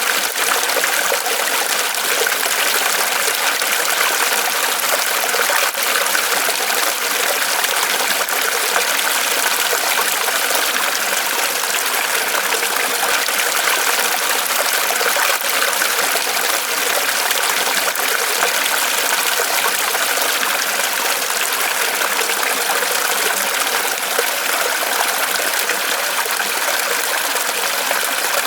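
Small waterfall of water pouring steadily from a tree trunk, a continuous splashing trickle.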